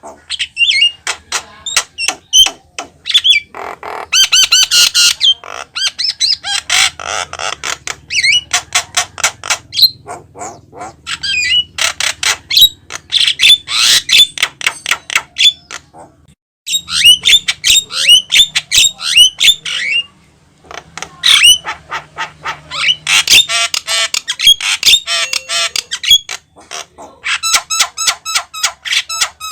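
A Javan myna (jalak kebo) singing vigorously: long runs of rapid, sharp chattering and whistled notes, several a second, with harsher squawking stretches and short pauses between bouts.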